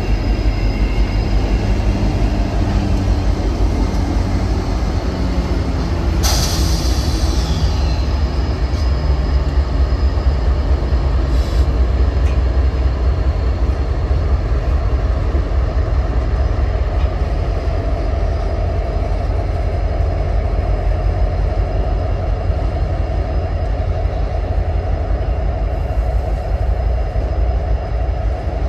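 Empty freight train rolling past close by with a steady, loud low rumble of wheels on the rails. The trailing GE AC4400CW diesel locomotive's engine is heard going by in the first several seconds and fades, then the empty covered hoppers roll past. A sudden sharp high-pitched sound about six seconds in trails off over a couple of seconds.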